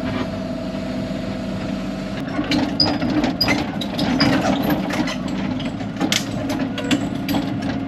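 Excavator diesel engine running steadily. About two seconds in the sound turns busier and rougher, with many sharp clicks and clanks from the machine working.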